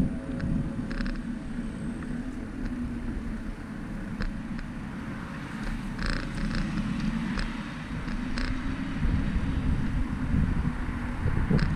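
Low rumble of wind and road noise on the microphone of a moving bicycle, with a few short clicks and brief hissy bursts scattered through it.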